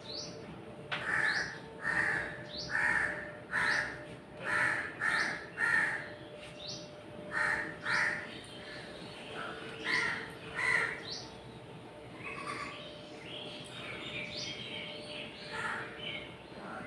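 A bird calling over and over: about a dozen short calls, roughly one every half to one second, then fainter, higher chirping from about twelve seconds in. A faint steady hum runs underneath.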